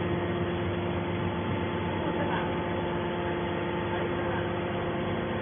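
Hydraulic metal baler's power unit (motor and pump) running, a steady hum with several held tones and no strokes or impacts.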